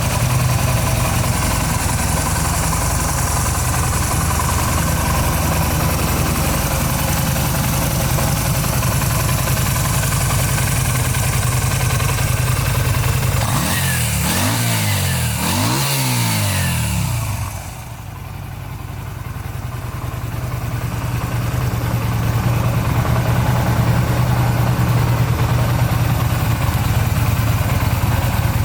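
Yamaha Star 250's air-cooled V-twin engine idling steadily, blipped twice about halfway through with the pitch rising and falling each time, then settling back to idle.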